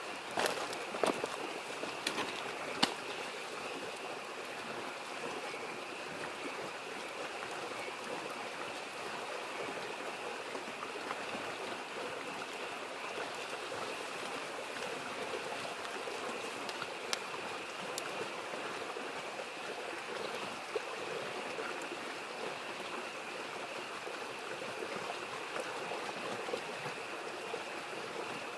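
A mountain stream babbling steadily, with a steady high chorus of frogs over it. Campfire pops crackle a few times in the first three seconds and twice more about halfway through.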